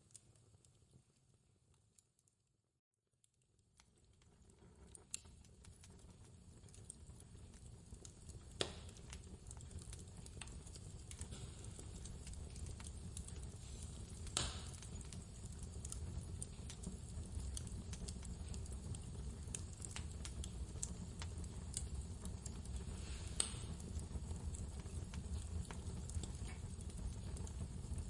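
Fireplace crackling with scattered sharp pops over a low, steady rumble of blizzard wind. The sound dies away to silence about two seconds in, then fades back up and builds over the next several seconds.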